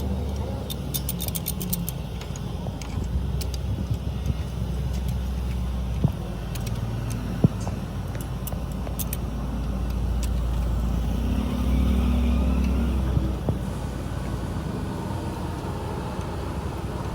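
A steady low mechanical rumble that swells for a few seconds past the middle, with a quick run of metallic clicks near the start and two sharp knocks.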